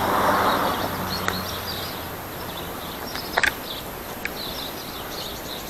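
Small birds chirping repeatedly in short high calls. A few sharp clicks come through, the loudest about three and a half seconds in, and a low rumble fades out in the first second.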